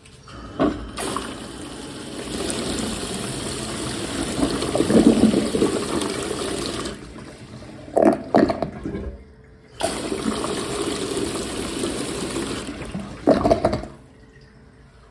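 Homemade toilet flushing toilet paper: water rushes through the bowl in two spells with a short lull between them, broken by a few brief louder gushes.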